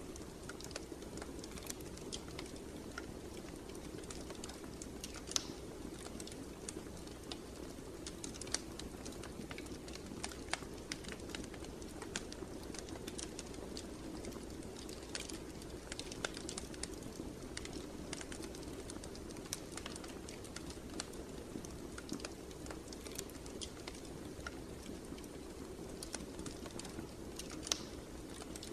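Wood fire crackling in a fireplace: irregular sharp pops and snaps over a steady low sound of flames.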